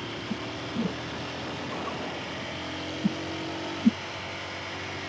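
Motorcycle engine running steadily while riding, with a few short low thumps.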